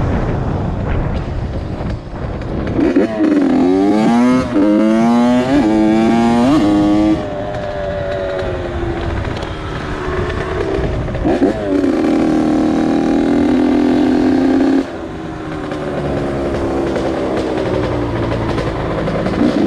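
Honda CR80 two-stroke single-cylinder dirt bike engine under way: it revs up and drops back about four times in quick succession, like shifting up through the gears, then eases off. Later it revs up again, holds a steady high pitch for about three seconds, drops suddenly and runs on at lower revs.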